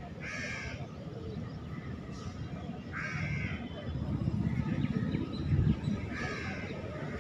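A bird calling three times, about three seconds apart, over a low rumble.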